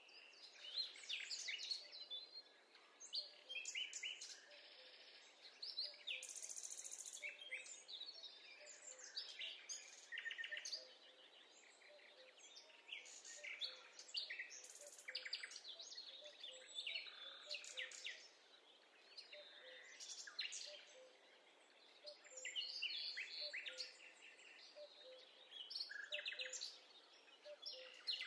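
Songbirds chirping and singing, many short calls and trills overlapping one another, over a faint steady background hiss.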